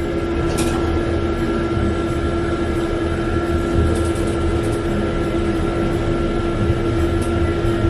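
Elevator car travelling between decks: a steady mechanical hum with a low rumble underneath.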